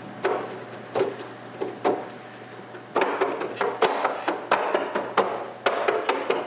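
Keys of a keyboard being pressed without any notes sounding, the plastic keys clacking: a few scattered presses, then quick steady tapping from about halfway.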